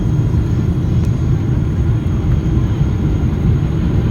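Boeing 777-200 airliner noise heard from the cabin during landing: a loud, steady low rumble of engines and airflow.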